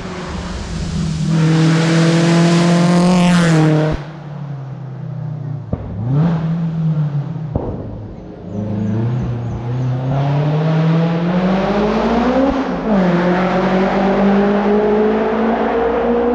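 Race car engine accelerating hard up a hillclimb course. Its pitch climbs and then drops sharply at each gear change, about twice. There is a brief lull with a couple of sharp cracks around six seconds in.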